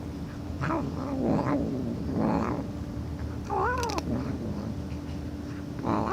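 A domestic cat making a series of odd vocal calls: low, wavering sounds in the first half, then a call that rises and falls in pitch about three and a half seconds in, and another starting near the end.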